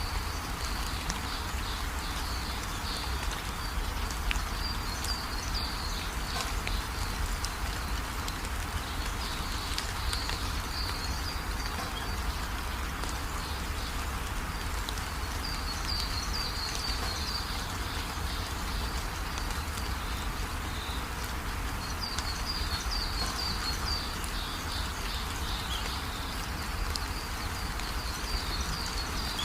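Steady rainfall, a continuous even hiss, with bursts of high-pitched chirping calls that come and go every few seconds.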